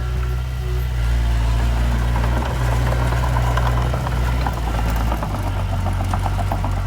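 Heavy diesel engine of earthmoving machinery running steadily, with a fast, rhythmic metallic clatter through the middle and a change in the engine note about five seconds in.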